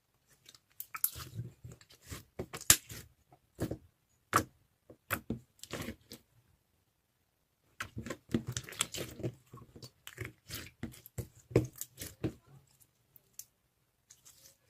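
Slime being worked by hand: a quick run of sticky clicks, crackles and squishes, in two spells with a short pause in the middle.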